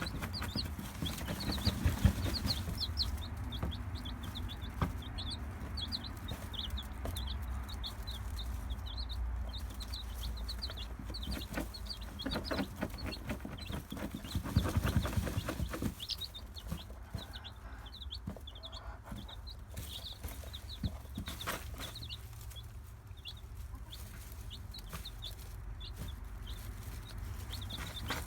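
Young chicks peeping over and over with short high chirps, alongside a broody hen's clucks. A few louder short noises come in the middle.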